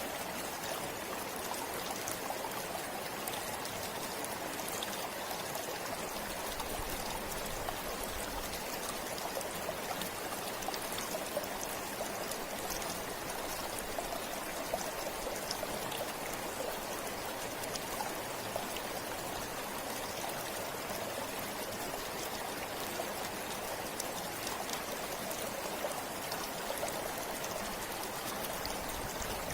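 Forest river flowing steadily over rocks, a constant rushing with small splashes and drips through it.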